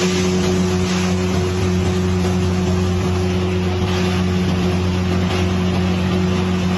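Boat engine running steadily at constant speed, a low even drone with a faint higher hum and a hiss of water and wind.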